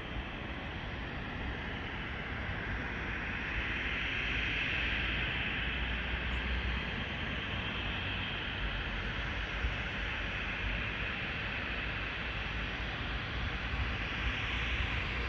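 Airbus A380's four jet engines at takeoff power: a steady rushing noise over a low rumble, swelling slightly about four seconds in and again near the end.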